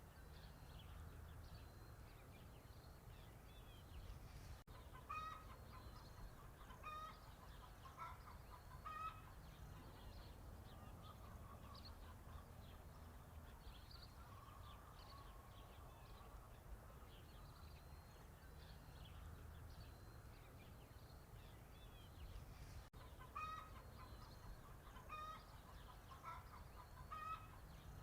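Faint farmyard sound of chickens clucking, in two bouts of short calls, with small birds chirping high throughout.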